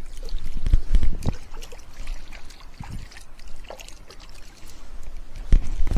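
Water trickling and splashing, with irregular small splashes and clicks and a few dull thumps about a second in and near the end.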